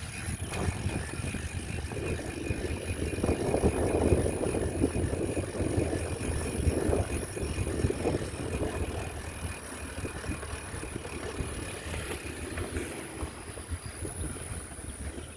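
Riding a bicycle: wind buffeting the microphone over the rattle and rolling of the bike, swelling for a few seconds in the middle.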